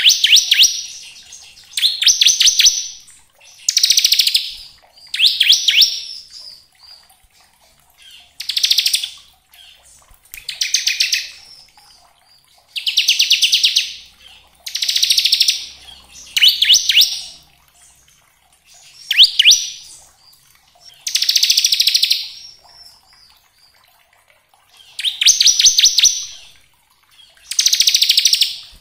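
Bar-winged prinia (ciblek) singing its 'ngebren' song: loud, high buzzing trills about a second long, repeated every two seconds or so. It is a lure recording, played to stimulate other prinias to sing.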